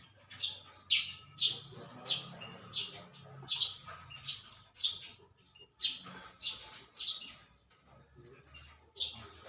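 A small bird chirping over and over, short sharp high chirps about two a second, pausing briefly near the end.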